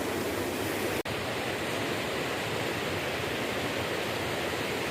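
Steady rushing noise of wind and flowing river water, broken by a very brief dropout about a second in.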